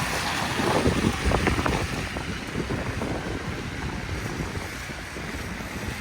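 Snowstorm wind buffeting the microphone over a steady rush of city street noise, with a few gusts in the first two seconds.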